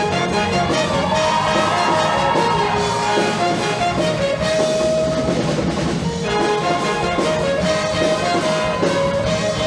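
Show choir's live band playing loudly, with brass and drum kit carrying the music. Fresh loud entries come at the start and about six seconds in.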